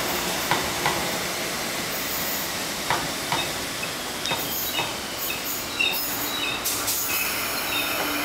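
Electric commuter train rolling along the platform at speed: a steady rumble and hiss with irregular sharp wheel clicks over the rail joints, and brief high wheel squeals in the second half.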